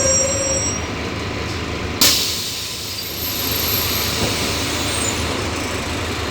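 Scania city bus pulling up: a high brake squeal fades out about half a second in, then about two seconds in a sudden loud hiss of released compressed air, which dies away over about a second while the diesel engine keeps running steadily underneath.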